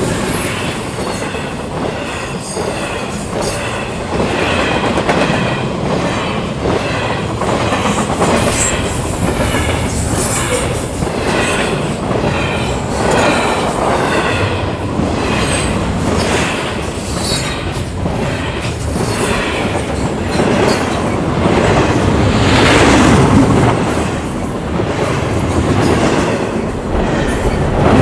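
Double-stack intermodal freight cars rolling past at speed: steel wheels clicking over rail joints in an uneven rhythm, with a continuous rumble and short, repeated wheel squeals.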